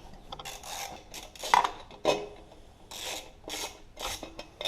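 A ratchet wrench backs out the exhaust bolts on an MTD small engine in a run of short rasping strokes. About a second and a half in there is a louder metallic clank.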